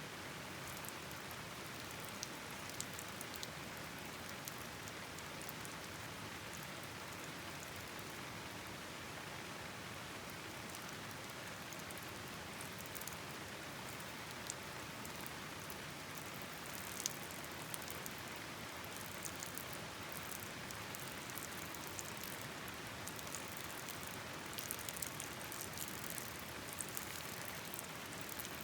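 Steady rain with scattered sharp ticks of drops, growing denser near the end.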